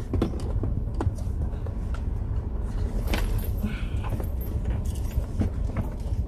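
Steady low rumble of a car's engine and road noise heard from inside the cabin, with scattered small clicks and rattles of things being handled.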